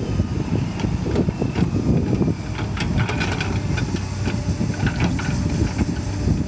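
Excavator's diesel engine running steadily, with a scatter of short clanks and rattles, most of them between about one and five seconds in.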